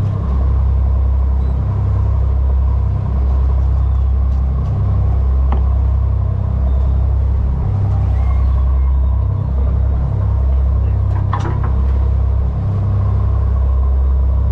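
Fishing boat under way: a steady low engine drone that swells and dips, with a faint steady whine above it. Two brief clicks come through, about five and eleven seconds in.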